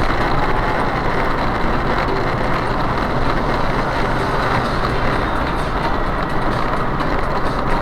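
Steady, loud rush of wind and road noise from a vehicle travelling at speed, with no distinct events.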